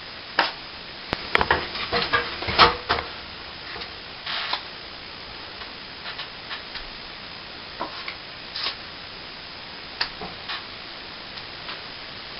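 Plastering trowel working cornice cement: a busy run of sharp clicks and scrapes in the first few seconds, then scattered single taps and short scrapes of metal on wet cement.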